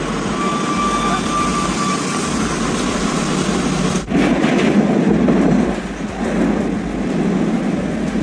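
Steady rumble of vehicle noise, with a thin high whine in the first two seconds. The sound changes abruptly about four seconds in.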